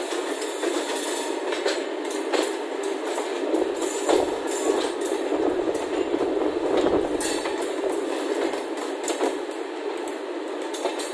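Express passenger train running on the track, its wheels clattering with irregular clicks over the rails.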